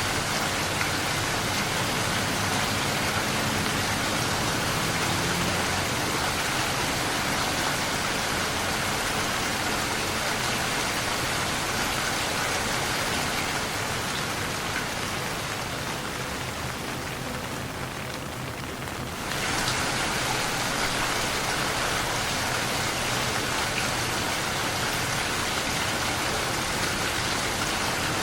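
Steady rain falling with an even hiss. About two-thirds of the way through, the higher part of the hiss briefly thins out, then returns all at once.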